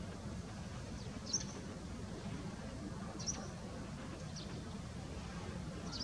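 Short, high bird chirps, four of them one to two seconds apart, over a steady low rumble.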